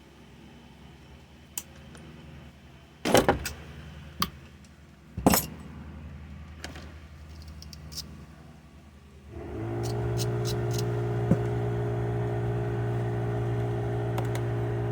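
A few sharp metallic knocks and clatters from handling tools and parts. Then, about nine and a half seconds in, a motor starts and runs steadily at one constant pitch.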